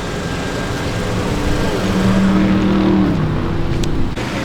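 A motor vehicle's engine running close by, over a low rumble. It holds a steady pitch that swells about two seconds in, then drops a little just after three seconds.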